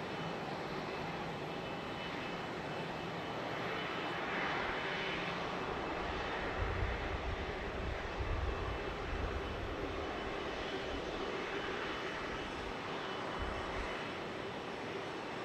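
Jet airliner engines running with a steady, broad sound that swells slightly in the middle with low rumbles.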